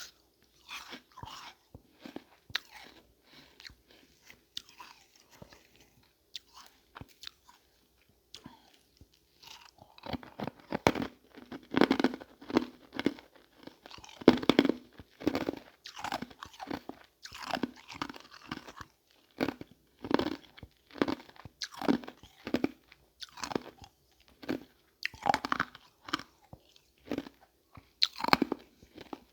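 Close-up crunching and chewing of small marble-shaped pieces of ice, in quick irregular bites. The crunches are softer and sparser at first, then grow louder and denser from about ten seconds in.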